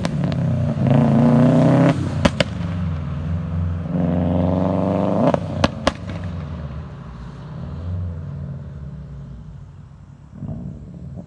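2011 Subaru WRX STI's turbocharged flat-four through an Invidia single-exit catback exhaust, revved up twice. Each rev climbs for about a second and is followed by sharp pops or cracks from the exhaust as it drops. It then settles back down to a lower, quieter idle.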